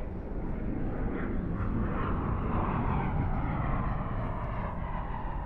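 Distant jet aircraft flying by: a deep rumble with a whine that slowly falls in pitch as it passes.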